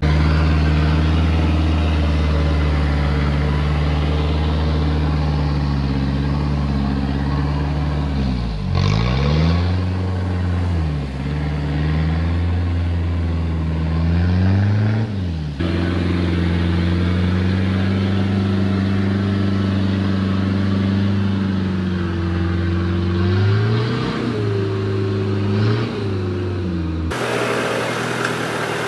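Modified Toyota Hilux's 3.0 turbo diesel engine running under load while crawling off-road, its pitch sagging and picking up again a few times as the revs drop and recover. Later the revs rise briefly with throttle, and near the end it drops to a lower, steadier running sound.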